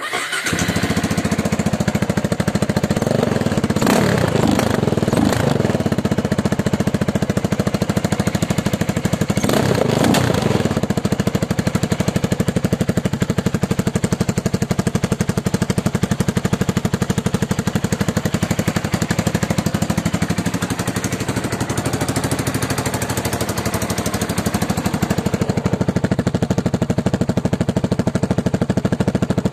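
An engine running with a rapid, even pulsing beat, rising briefly about four seconds in and again about ten seconds in.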